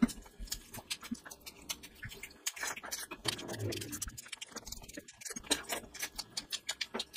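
Close-miked wet chewing of rice and curry eaten by hand: rapid, sticky mouth clicks and lip smacks.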